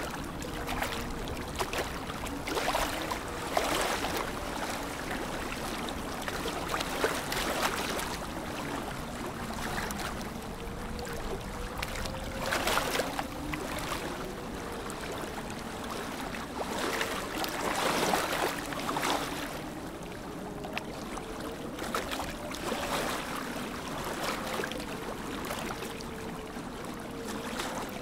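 Lake water lapping, with irregular louder splashes every few seconds over a steady wash, and a faint wavering tone underneath.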